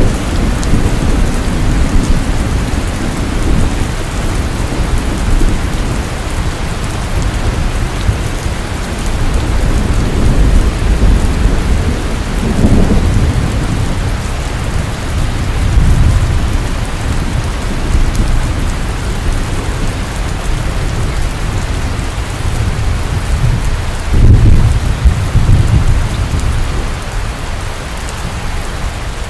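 Steady, loud rain, with deep low rumbles swelling up about halfway through and again near the end.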